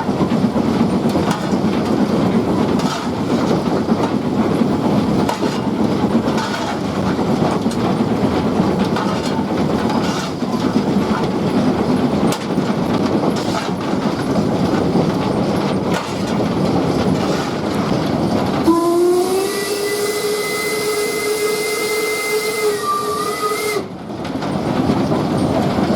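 Steam train running, with steady rail clatter and running noise. About three-quarters of the way through, the locomotive gives one long whistle of about five seconds, which rises slightly as it opens and then cuts off sharply.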